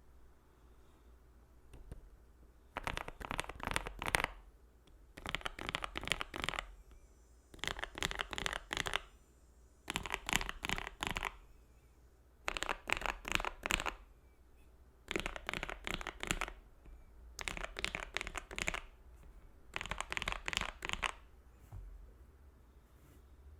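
Typing on a mechanical keyboard, a KBD67 Lite R2 with lubed and filmed Gateron Black Ink v2 linear switches, PE foam and tape mods. The keys are struck in eight quick bursts of rapid keystrokes, each about one and a half seconds long, with short pauses between them.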